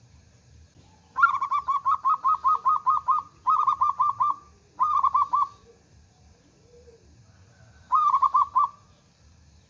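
Local zebra dove (perkutut lokal) singing: four runs of quick, evenly spaced cooing notes, the first and longest lasting about two seconds, two shorter runs after it, then a pause and a last short run near the end.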